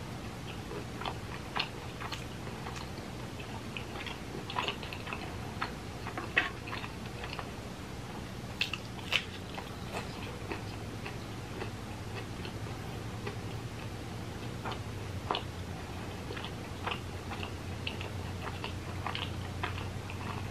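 Close-miked chewing of a mouthful of pepperoni pizza, with irregular wet lip smacks and mouth clicks over a faint steady low hum.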